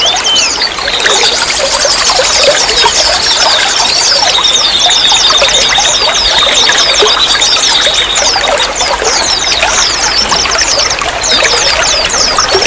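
Running water trickling and splashing steadily, with many quick high chirps over it and a held high trill for a few seconds in the middle.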